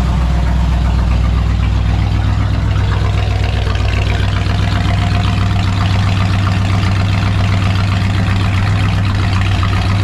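1966 Ford F100's V8 engine idling steadily, running well after years of sitting unused.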